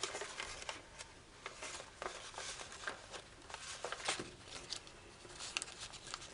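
Origami foil paper crinkling and crackling under the fingers as a folded layer is opened and pressed flat, in a run of small irregular crackles and taps.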